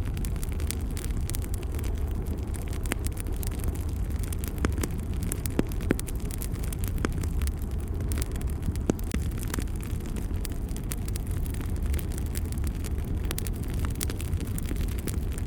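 Wood fire burning in a fireplace: a steady low rumble with scattered crackles and a few sharper pops.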